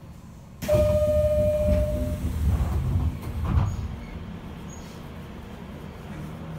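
Interior running noise of a Nishitetsu 6050 series electric train: a heavy low rumble that comes in suddenly about a second in, with a steady high whine over it for a second or so. The rumble stays loud for about three seconds, then eases to a quieter steady run.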